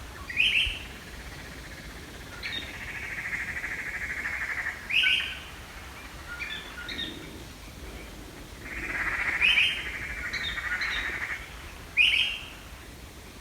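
Birdsong: short, loud chirps every few seconds, with long rapid trills lasting about two seconds between them.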